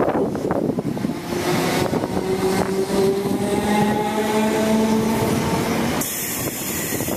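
Class 455 electric multiple unit's traction motors whining, the pitch rising slowly as the train picks up speed, while wind buffets the microphone.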